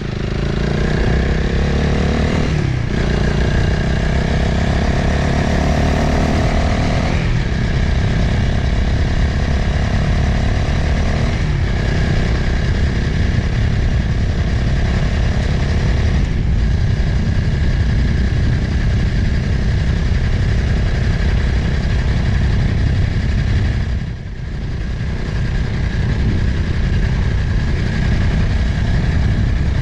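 Motorcycle engine pulling up through the gears, its pitch rising and then dropping at quick shifts about three and seven seconds in, then running steadily at cruising speed. Wind rushes over the microphone throughout, and there is a brief lift off the throttle near the end.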